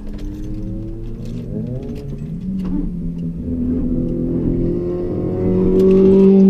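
Car engine accelerating hard under load. Its pitch bends about two seconds in, then climbs steadily and gets louder toward the end.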